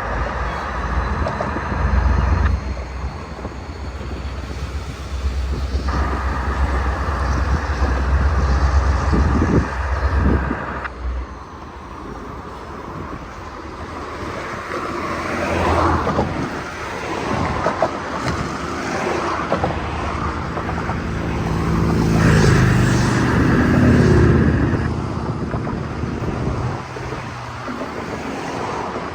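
Diesel locomotive engines working as a freight train pulls out, a low rumble for about the first ten seconds that then drops away, with wind on the microphone.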